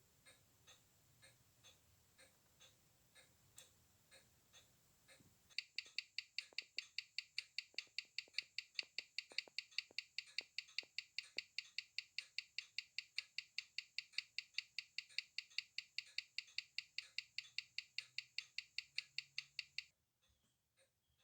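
Glashütte Spezimatic Bison automatic watch movement ticking with a rapid, perfectly even beat, close to the microphone: the running movement after its full service. The ticks are faint at first, turn much louder about five seconds in, and stop abruptly near the end.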